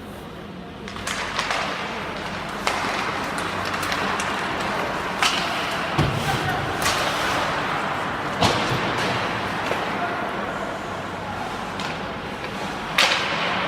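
Ice hockey play in a rink: a steady scraping hiss with sharp knocks of sticks, puck and boards every second or two, under the voices of spectators.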